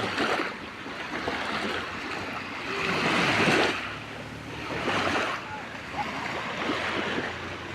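Sea waves breaking on a beach. Each surge of surf builds and fades over a second or so, three or four times.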